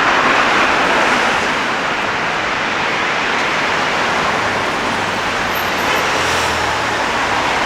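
Road traffic: a steady rush of passing cars, with a low engine hum in the second half.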